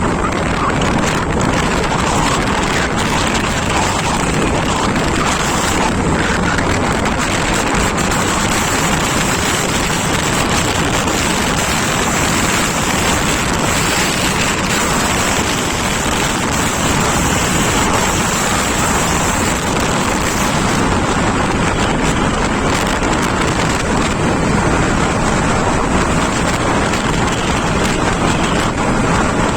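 Steady wind rush buffeting the microphone of a moving scooter, mixed with its engine and road noise.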